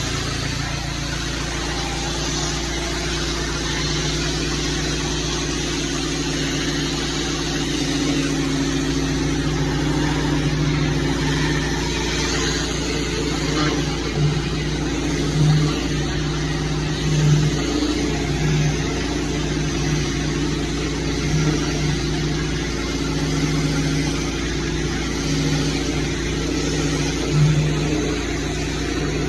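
Gas engine of pressure-washing equipment running steadily under a loud, even hiss, with a few brief swells in level in the second half.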